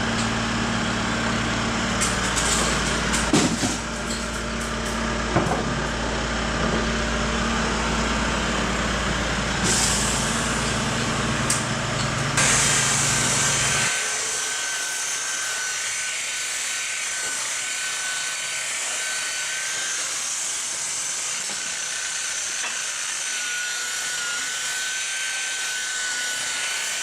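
A steady low engine hum with a few knocks, which stops about halfway through. Then an electric rotary polisher runs with a steady high whine and hiss as it buffs oxidised tractor paint.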